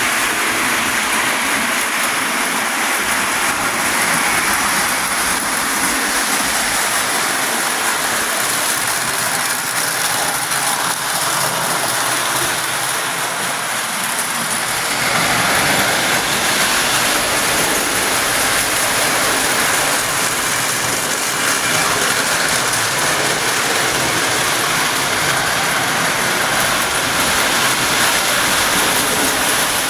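Lionel pre-war tinplate toy train running steadily on its track, motor and wheels making a continuous whirring rattle that grows a little louder about halfway through.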